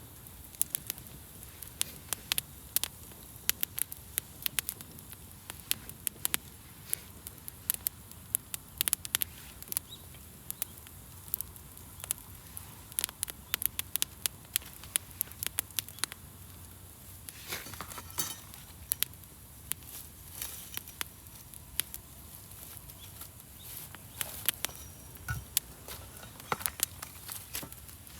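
Wood fire crackling, with many sharp, irregular pops and snaps over a steady soft hiss. A denser run of crackling comes about two-thirds of the way through.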